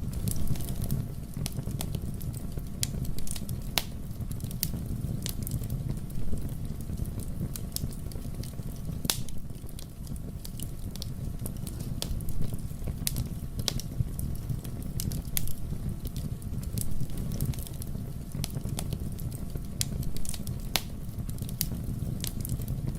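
Fire burning in a fireplace, crackling with irregular sharp pops over a steady low rumble of flame.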